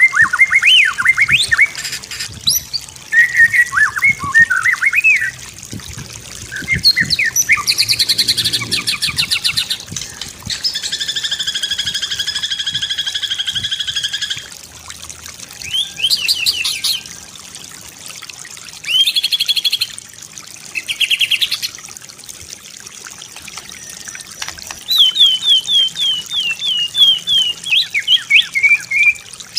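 White-rumped shama (murai batu) singing a varied song in separate phrases: quick whistled gliding notes, a rattling trill held for about four seconds near the middle, short runs of sharp chips, and near the end a quick series of repeated falling notes.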